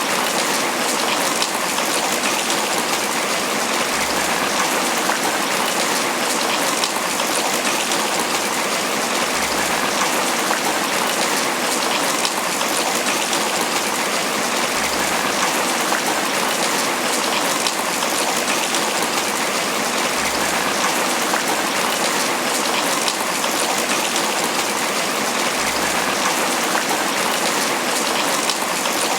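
Steady tropical rain falling on banana leaves, an even patter with no let-up.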